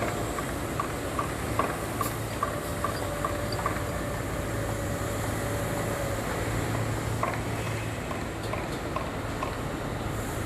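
Hyundai four-axle dump truck's diesel engine running steadily, with a regular light ticking about two or three times a second that fades out about four seconds in.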